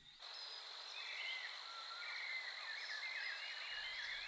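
Wildlife ambience of insects and frogs: a steady high insect drone with many short chirping, warbling calls over it. It starts abruptly a moment in.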